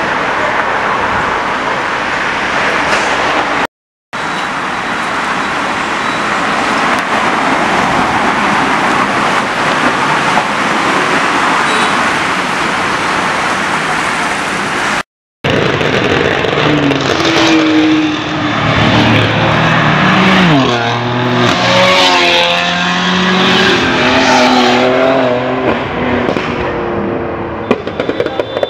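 Steady roar of city road traffic, broken twice by a brief silent gap. From about halfway through, a car engine revs and accelerates loudly, its pitch rising and falling several times as it pulls away.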